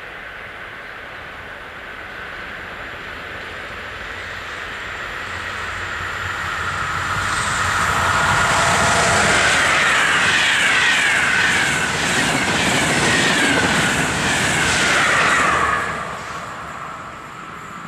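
Electric passenger train approaching and passing on the line. The noise of the wheels on the rails builds for several seconds and is loudest for about eight seconds as the train goes by, with a series of falling high tones, then drops away sharply near the end.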